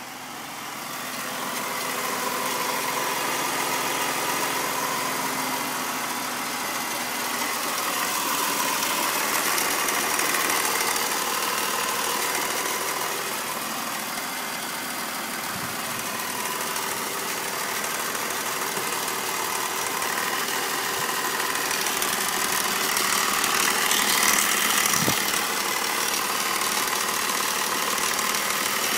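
BMW M54 straight-six engine idling just after start-up, with a fast, steady ticking running through the idle. The owner suspects the VANOS unit or the hydraulic valve lifters.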